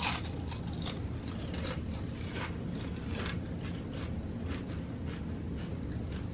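A person chewing a mouthful of chicken quesadilla close to the microphone: a string of small crunches and wet clicks at uneven intervals, several a second.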